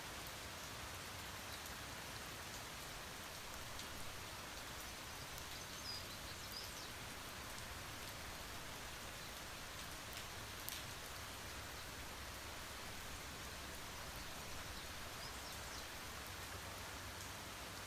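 Steady rain falling: an even hiss with scattered louder drop ticks, one sharper tick about eleven seconds in.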